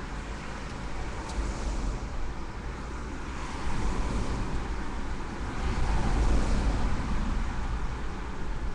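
Vehicle noise: a steady, deep rumble, swelling a little partway through and again about six seconds in.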